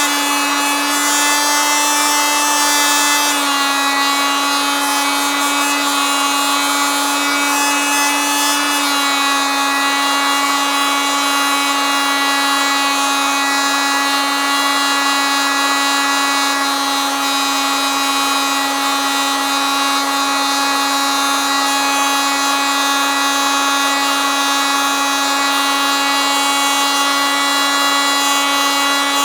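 Electric oscillating multitool running continuously with a steady, high-pitched buzz. Its pitch drops slightly twice, about three seconds and about nine seconds in.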